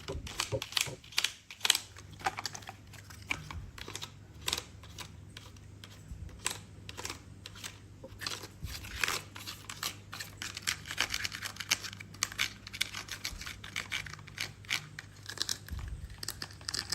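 Hands handling plastic toys, making rapid, irregular clicks and crinkly rustles over a faint, steady low hum.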